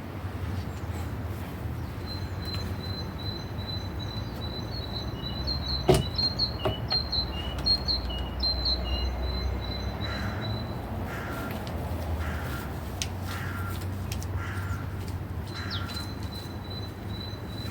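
Wild birds singing: high thin chirps over a held high note, then a run of about six evenly spaced lower calls in the second half. A single sharp click comes about six seconds in, over a steady low rumble.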